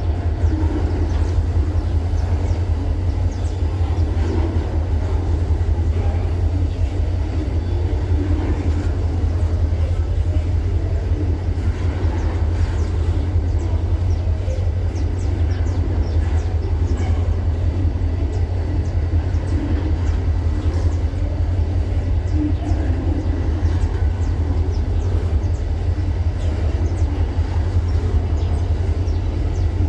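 Freight train rolling past: a steady low rumble of wagons and locomotives on the track, with faint clicks and squeaks from the wheels throughout.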